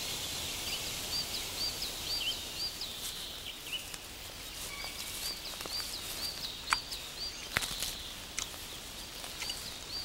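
Forest ambience with a small bird repeating a quick, high chirped note in three runs of about five to seven notes each, and a few faint sharp clicks.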